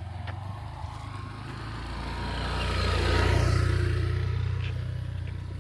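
A motor vehicle's engine passing close by, growing louder to a peak about three seconds in, then fading away.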